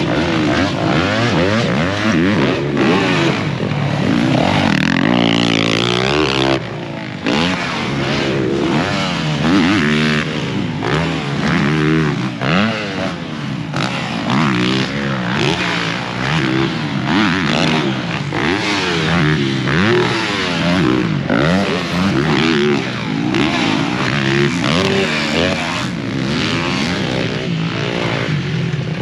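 Dirt bike engines revving hard and backing off over and over as the bikes ride the track, with several pitches rising and falling on top of one another. The sound drops away briefly about a quarter of the way in.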